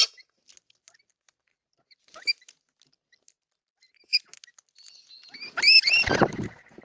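Wild birds calling at a backyard bird bath: a couple of short chirps, then a louder harsh call with rising-and-falling notes near the end, amid light scattered clicks and taps.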